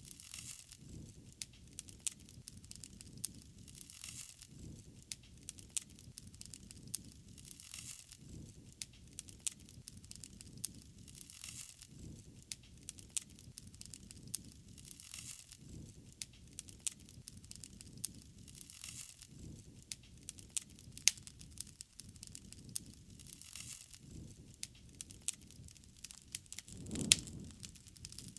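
Wood fire burning, crackling with many sharp pops over a low rumble and hiss. The hiss swells every few seconds. Near the end there is one louder, fuller flare of sound.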